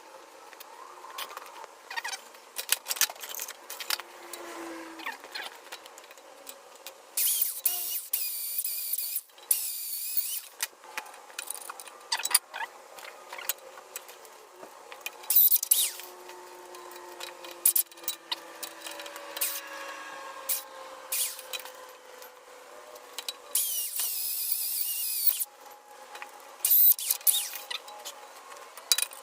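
Shop power tool worked on steel in short bursts of a few seconds each, several times, between clicks and knocks of metal being handled.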